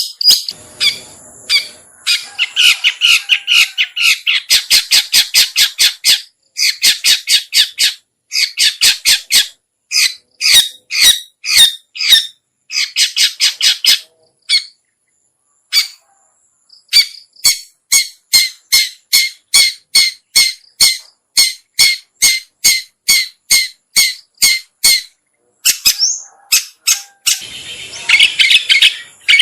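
Long-tailed shrike (cendet/pentet) calls used as a trapping lure: runs of short, sharp, repeated notes at about three to four a second, broken by brief pauses, with harsher scratchy chatter about two seconds in and again near the end.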